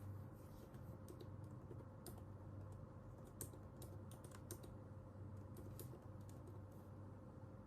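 Faint typing on a computer keyboard: irregular key clicks, a few a second, over a low steady hum.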